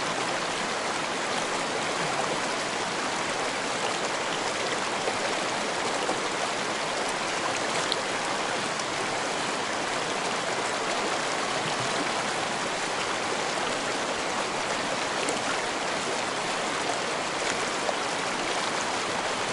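Shallow stream running over rocks, recorded close up: a steady, even rush of water with small splashes and trickles.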